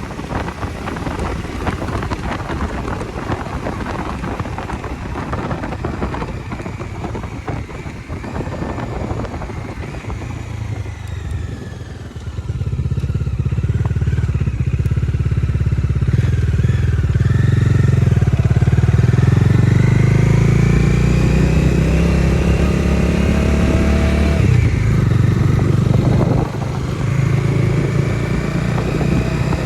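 Bajaj Dominar 250's single-cylinder engine under way, first mostly under a rush of wind and road noise, then about twelve seconds in it grows louder and revs up with a steadily rising pitch. The pitch breaks off near the end as if for a gear change, and starts climbing again.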